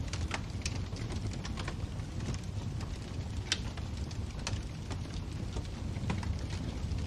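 Wood fire burning in a fireplace: a steady low rumble with irregular crackles and pops, the sharpest about three and a half seconds in.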